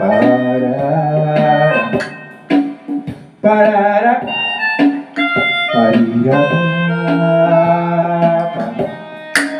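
Music: a melodica playing a melody of held notes that change about every second, over an accompaniment.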